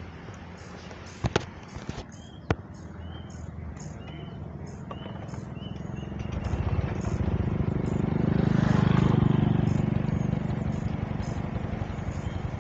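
Small birds chirping in short, repeated calls, about two a second. Two sharp clicks come early, and a passing vehicle swells to its loudest just past the middle, then fades.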